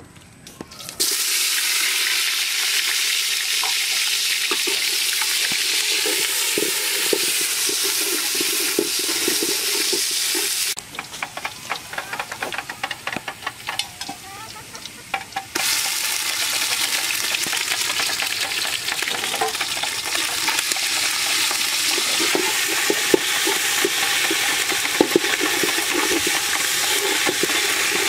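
Chopped ingredients hitting hot oil in a wide metal pan (karai) on a wood fire, setting off a loud sizzle about a second in, with a spatula scraping and stirring. Near the middle the sizzle drops away for several seconds, leaving scattered clinks and scrapes, then comes back.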